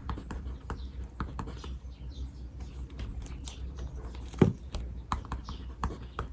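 Writing on paper at a desk: a quick run of short scratches and taps, with birds chirping faintly behind. A single low thump stands out about four seconds in.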